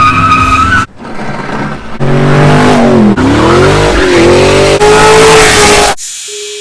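Car engine revving hard, its pitch sweeping down and then climbing back up, in several abrupt cut-together bursts that stop suddenly near the end.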